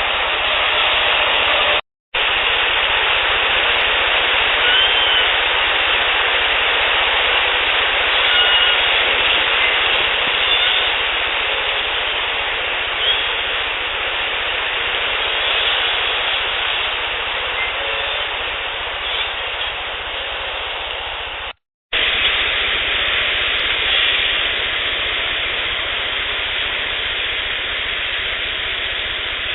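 Heavily boosted outdoor field recording dominated by steady hiss, with a few faint short whistles, some sliding in pitch. Clips are joined with two abrupt, brief drops to silence.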